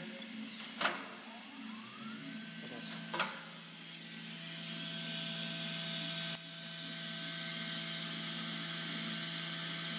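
The C.R. Onsrud router's 16 HP HSK-63F spindle spins up on command: a whine rises in pitch over about a second, then holds steady at speed and grows louder. There are two sharp clicks about one and three seconds in.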